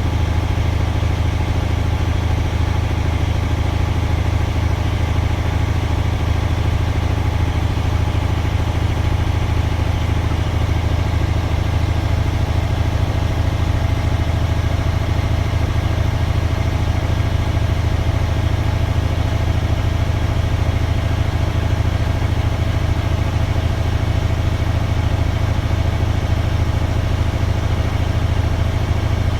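Truck's diesel engine running steadily, an even low hum with no change in speed.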